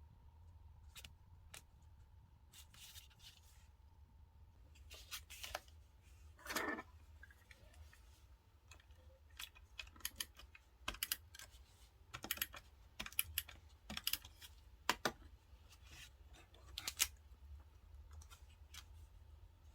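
Stationery being handled and cut while decorating a diary: a string of short, sharp snips and clicks, most of them in the second half, with one longer papery rustle about six and a half seconds in.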